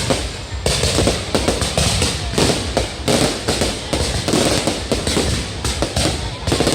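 Fireworks going off in rapid, continuous bursts: dense cracks and bangs one after another over a deep rumble.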